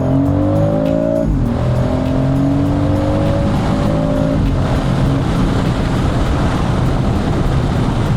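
BMW X3 M50's turbocharged inline-six accelerating hard, its pitch rising, dropping at an upshift about a second in, then climbing again until about four seconds in, after which steady road and tyre noise takes over.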